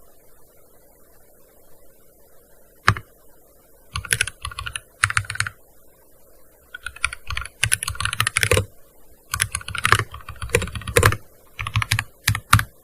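Typing on a gaming keyboard. After about three quiet seconds there is a single key press, then bursts of rapid keystrokes with short pauses between them.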